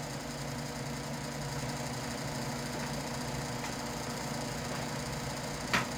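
Electric shop fan running with a steady, even hum, a little noisy; a short click sounds near the end.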